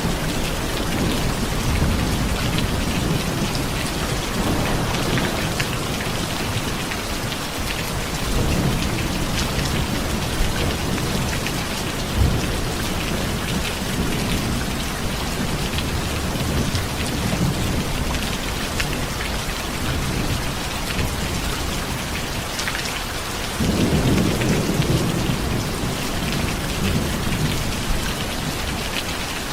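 Steady heavy rain with low rolling thunder rumbling in and out beneath it, a louder rumble starting suddenly about two-thirds of the way through.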